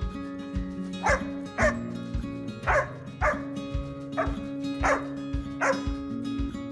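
A dog barking repeatedly, about eight short barks that each drop in pitch, over background music with a steady beat.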